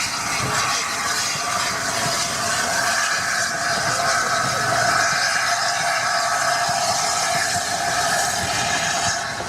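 Steam train running: a steady, loud, noisy rush with a few held higher tones through it.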